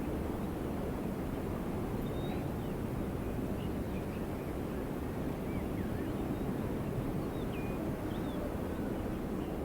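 Steady wind blowing in a low, even rush, with faint small-bird chirps scattered over it.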